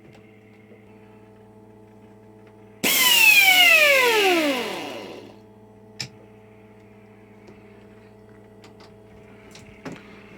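A refrigeration-type air compressor hums steadily. About three seconds in, a loud hissing whine falls in pitch and fades over about two seconds, followed by a sharp click at about six seconds.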